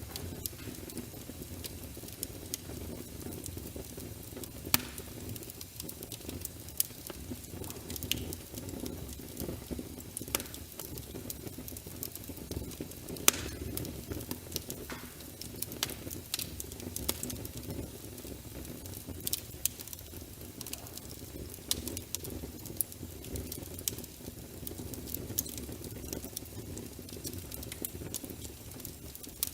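Wood fire burning in a fireplace: a steady low rumble of flames with sharp crackles and pops at irregular intervals, one pop louder than the rest about halfway through.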